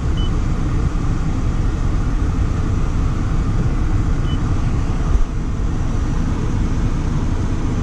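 Steady low rumbling noise, with two short high beeps about four seconds apart from the Mazda MX-5's infotainment screen as it is operated.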